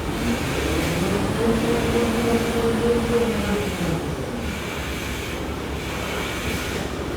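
Automatic pull-out tissue folding machine running with a steady mechanical noise. A whine rises in pitch about a second in, holds for a couple of seconds, then fades.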